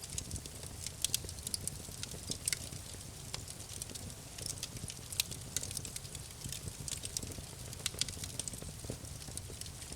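Wood campfire crackling: sharp, irregular pops and snaps, several a second, over a low steady rumble of the burning fire.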